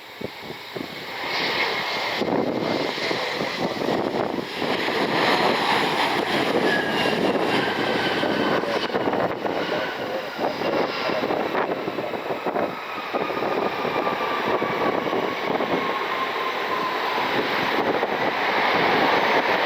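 Embraer regional jet's twin turbofan engines roaring past as it comes in to land, the roar building about a second in and its engine whine falling slowly in pitch as it goes by.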